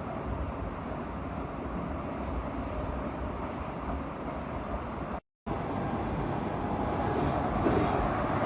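Steady running noise of a moving train, cutting out completely for a moment about five seconds in.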